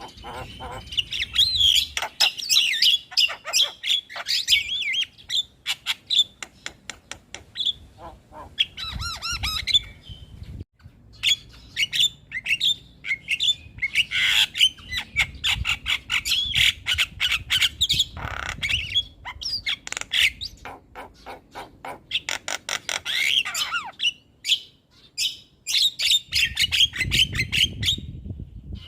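Javan myna (jalak kebo) singing a fast, varied stream of harsh squawks, clicks and short whistled chatter, in long runs broken by a couple of brief pauses.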